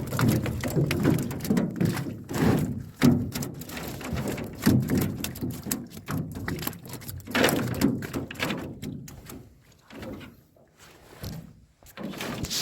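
Live barbs flapping and thumping against the boat with wet splashing, in irregular knocks that grow sparse after about nine seconds.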